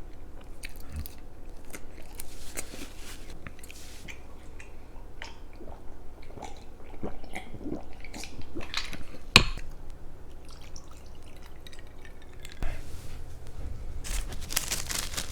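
Close-up eating sounds: a pizza slice being bitten and chewed, with wet, squishy mouth noises and small crunches. A single sharp click about nine seconds in.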